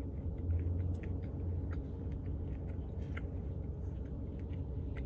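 A person chewing a mouthful of ice-cream dessert with candy pieces in it: faint, irregular clicks of chewing and crunching over a steady low hum.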